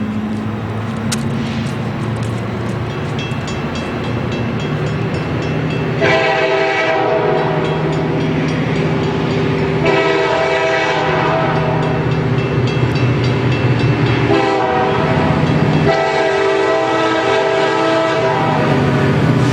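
Diesel freight locomotive running, then sounding its multi-tone air horn in the grade-crossing pattern: two long blasts, one short and one long, starting about six seconds in. This is the signal that a train is approaching a road crossing.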